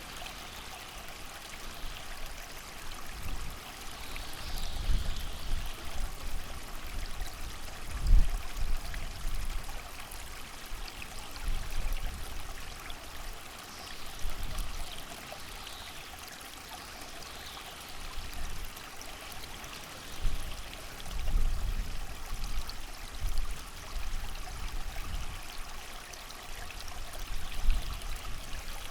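A creek running steadily with rain falling, as a continuous rushing hiss. Wind gusts swell in and out as low rumbles every few seconds; the strongest is about eight seconds in.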